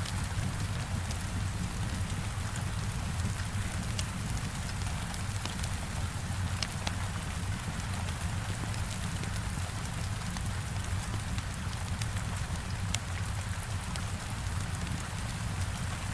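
Steady heavy rain with a low rumble beneath it, mixed with scattered sharp crackles of a wood fire.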